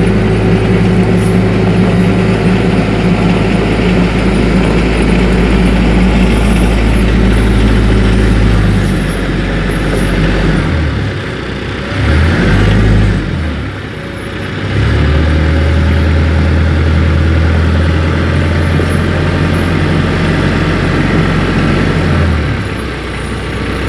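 TYM 474 compact tractor's diesel engine running as the tractor drives on snow chains. The engine steadies, dips and changes speed around the middle, runs steady again, then drops off near the end.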